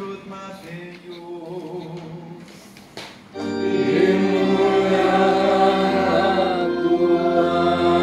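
A church choir singing a hymn during Mass. The singing is softer at first, then grows much louder about three seconds in, with low held accompaniment notes underneath.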